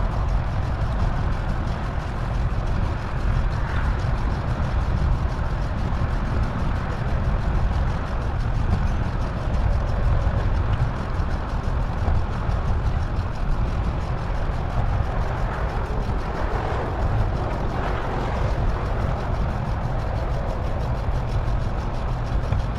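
Steady rush of wind and road noise from a moving bicycle, heaviest at the low end, with no breaks.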